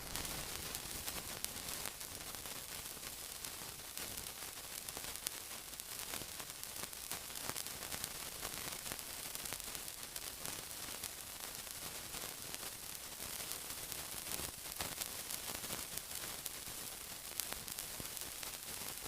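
Steady sizzling: a dense hiss made of countless tiny crackles, with an occasional sharper pop.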